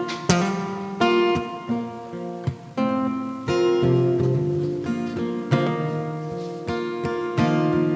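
Acoustic-electric guitar strumming chords, a strum every second or so with the strings ringing on between strokes.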